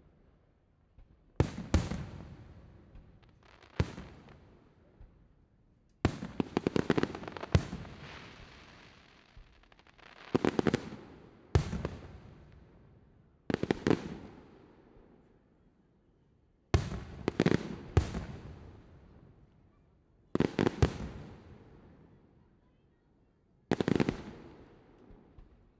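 Aerial fireworks shells bursting: about a dozen sharp booms, some alone and some in quick pairs or triplets, each trailing off in a rolling echo. About six seconds in, a dense run of rapid crackling reports goes off.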